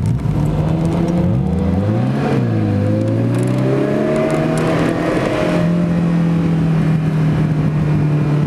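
Ferrari engine pulling along a twisty road, heard from the open-top cabin with wind rushing past. The revs climb to a peak about two seconds in and fall away quickly, rise slowly again, then hold steady through the second half.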